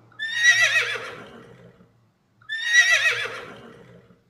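Horse whinnying twice, each a wavering, high-pitched call that trails off.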